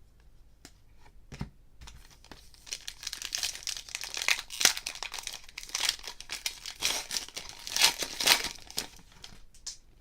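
A trading card pack wrapper, a pack of 2013 Prestige football, being torn open and crinkled. A few light clicks come first, then from about two seconds in there are several seconds of dense crackling and tearing.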